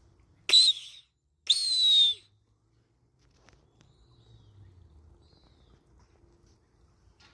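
Two loud, harsh hawk screams in quick succession, each falling slightly in pitch, the second longer than the first. Two much fainter high calls follow a couple of seconds later.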